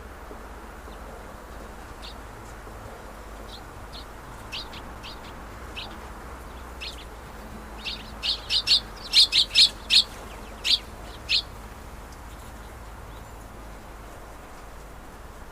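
Small birds chirping: short, sharp, high chirps, scattered at first, then a quick loud run of about ten chirps a little past the middle.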